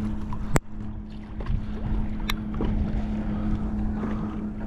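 Wind buffeting the microphone out on open water from a kayak, with a steady low hum throughout. Two sharp knocks, one about half a second in and another about two seconds in.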